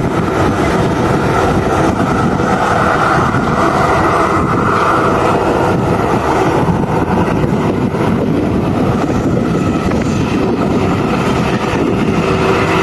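Aircraft engines running steadily and loudly, a continuous rushing noise with a steady mid-pitched whine.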